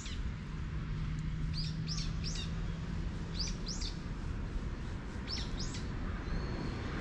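Small birds chirping: short, quickly falling chirps in little groups of two or three, about eight in all, over a low outdoor rumble.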